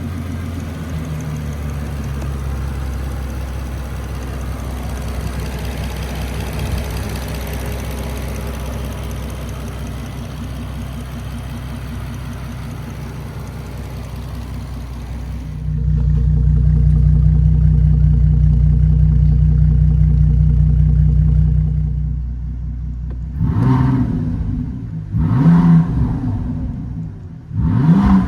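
Bentley Continental GT Supersports' twin-turbo W12 engine running with a steady drone that gets markedly louder about sixteen seconds in. Near the end it is revved three times in quick succession, each rev rising and falling in pitch.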